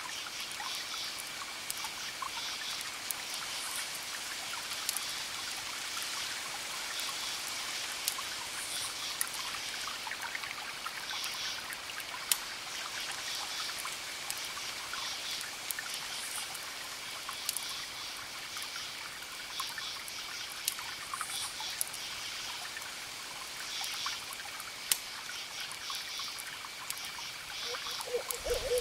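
Wood fire crackling with scattered sharp pops, over a steady night-time forest bed of short chirping calls that repeat every couple of seconds. A low owl hoot begins right at the end.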